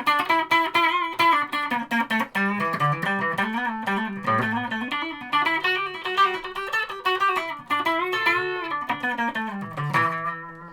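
Electric guitar, a Strat-style guitar with extra pickups, playing a phrase of single plucked notes with bends and vibrato, ending on a held note that rings out and fades. The middle pickup is wired out of phase and in series with a second pickup.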